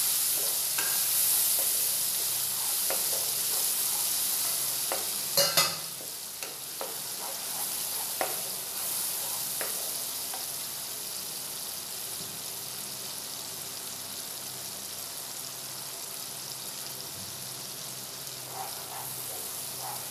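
Onion and spice masala sizzling in hot oil in a kadhai, freshly added and being fried, while a wooden spatula stirs and scrapes it. The hiss is loudest at first and eases off after a sharp clatter about five seconds in.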